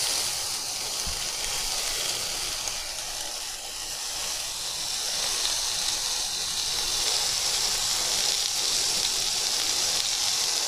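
Thin strips of pork bulgogi sizzling steadily in a hot nonstick frying pan.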